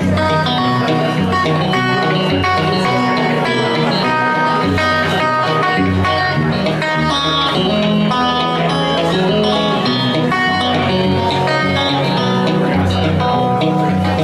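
Solo guitar playing a picked blues passage, a moving bass line under quick melody notes.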